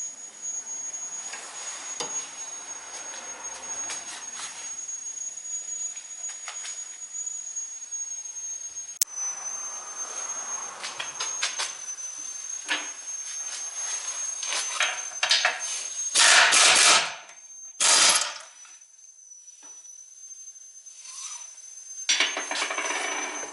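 Hand tools working on a car: scattered clinks, taps and knocks of metal tools, with two loud noisy bursts about a second apart near the end. A faint steady high whine runs underneath.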